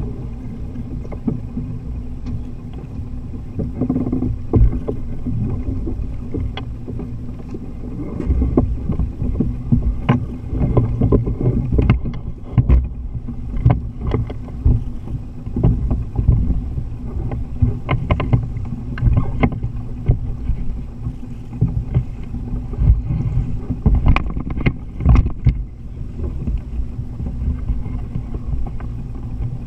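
Sound aboard a Jeanneau 39i sailing yacht under way: a steady low hum under a rumble of wind and water, with irregular knocks and clicks throughout.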